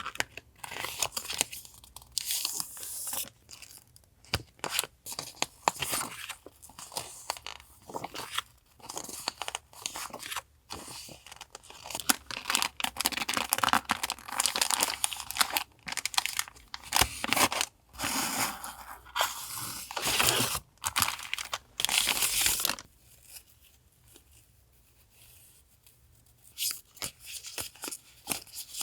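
Paper and plastic-wrapped stationery being handled: crinkling, rustling and tearing in quick bursts with short pauses, quieter for a few seconds near the end.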